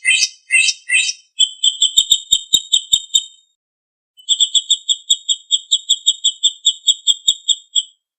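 Songbird singing a masteran training song: three quick swooping notes, then two long runs of sharp, evenly repeated chips, about eight a second, with a short break between them.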